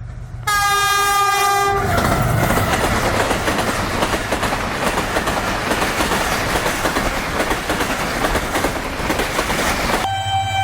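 Pakistan Railways GEU-20 diesel-electric locomotive hauling an express passenger train: a short horn blast, then the train passing close with a loud rush and wheel-on-rail clatter for about eight seconds, and the horn sounding again near the end, still held.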